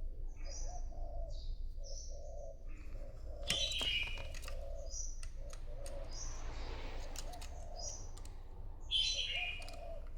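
Decoy spotted dove cooing in a steady run of short, low, repeated notes, calling to wild doves. Small birds chirp high above it, loudest about three and a half seconds in and again near the end.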